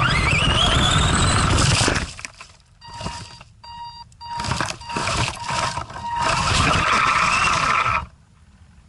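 Arrma Granite RC monster truck's electric motor whining as it revs, with its tyres scraping and crunching over ice. The sound breaks up for a couple of seconds about two seconds in, comes back loud, and cuts off suddenly near the end.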